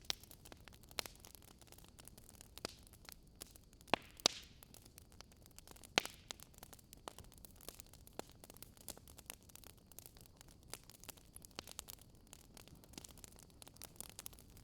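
Fireplace crackling: irregular sharp pops and snaps over a faint steady hiss, with a few louder pops about four and six seconds in.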